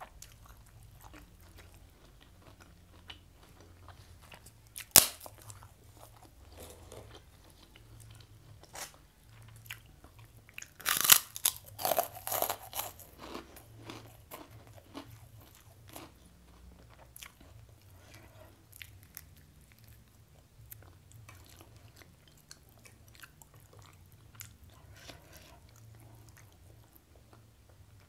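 Close-miked eating with the hands: chewing with scattered small clicks, a single sharp click about five seconds in, and a dense run of loud crunches about eleven to thirteen seconds in as she bites into crunchy food.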